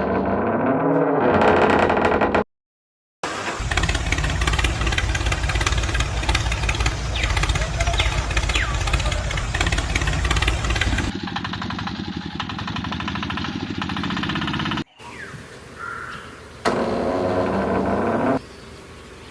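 A small motor running in several spliced segments, with a brief cut near the start. It is loudest and has a heavy rumble from a few seconds in to about the middle, then quieter in the later segments.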